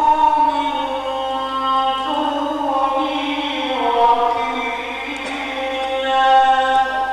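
A man reciting the Quran in the slow, melodic mujawwad style, holding long drawn-out notes that step and glide between pitches.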